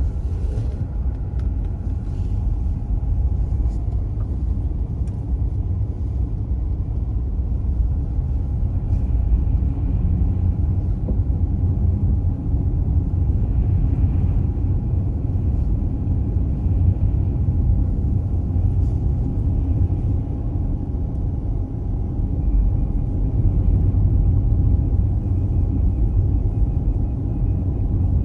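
Tesla Model S driving on snowy roads: a steady low road and tyre rumble with a faint steady high tone over it.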